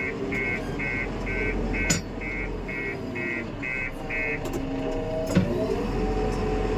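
Backhoe loader's diesel engine running while its reversing alarm beeps about twice a second, the beeping stopping about four seconds in. A sharp knock comes a little later.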